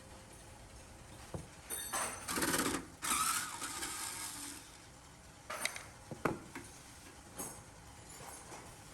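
Workshop handling noises: a few sharp clicks and knocks, with about two seconds of noisy rubbing or rustling near the middle.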